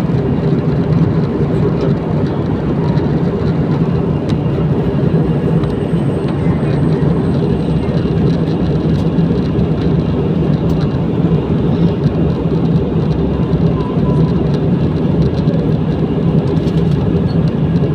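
Airliner cabin noise: the steady drone of the engines and rushing air heard from inside the passenger cabin.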